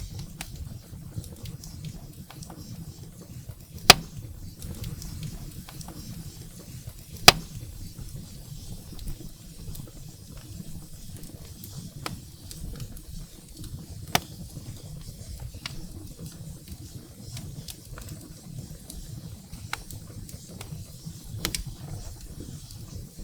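Firewood burning in a fireplace: a steady low rumble of flames with scattered crackles, and two loud sharp pops about four and seven seconds in.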